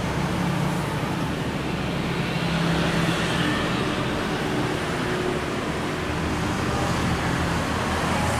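Steady road traffic noise: motor vehicle engines running, with a low hum that shifts in pitch as vehicles go by.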